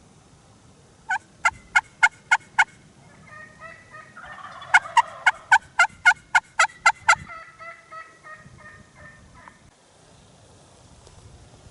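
Turkeys calling: two runs of sharp, evenly spaced yelps, six and then about nine, with a softer rolling, warbling call running between and after them.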